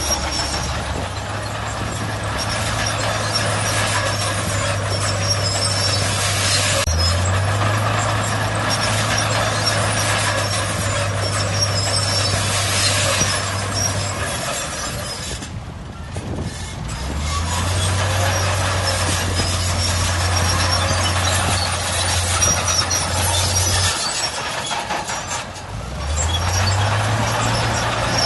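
Heavy diesel earthmoving machinery working. The engine revs up quickly, holds under load for several seconds and drops back, in cycles of about ten seconds, three times, over a loud noisy clatter.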